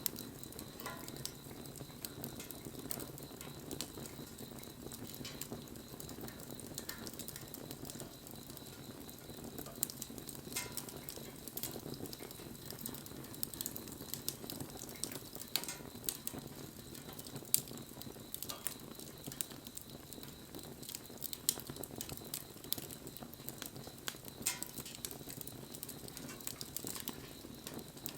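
Wood bonfire burning: a steady low rush of flame under frequent sharp crackles and pops from the burning wood.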